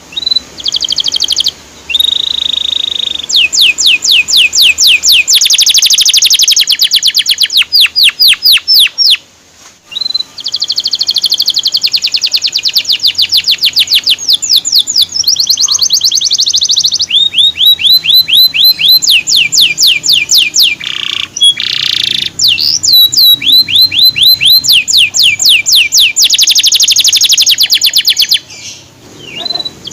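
Male canary singing a long, loud song of fast repeated trills, high-pitched, switching from one trill to the next, with brief pauses about a second and a half in, near ten seconds and near the end. This is a masteran tutor song, played for young canaries to learn from.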